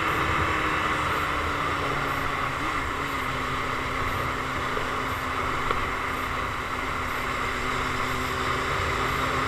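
Motorcycle engine running steadily while riding, with a faint engine tone that slowly drops in pitch as the bike eases off.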